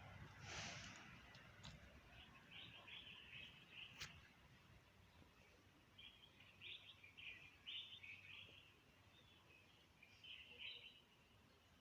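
Faint bird chirps: short high calls repeated in small clusters, with one sharp click about four seconds in.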